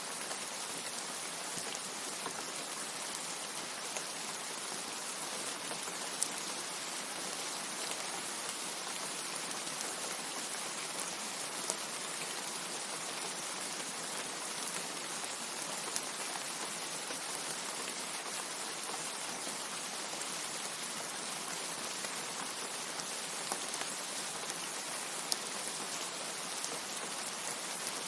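Steady rain falling, an even hiss with a few sharper single drop ticks scattered through it.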